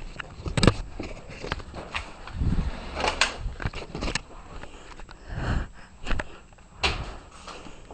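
A handful of separate knocks and dull thumps with light rustling in between, the sharpest about a second in and another near the end.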